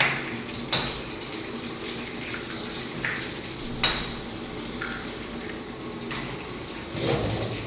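A few sharp clinks of hard objects knocking together, the two loudest about a second and about four seconds in, over steady background noise.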